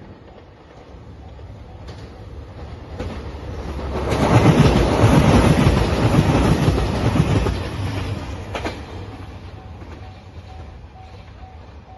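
JR Shikoku 2700 series diesel limited-express train passing close by. Its sound builds from about two seconds in, is loudest from about four to seven and a half seconds, then fades as it recedes. A level-crossing bell rings faintly near the end.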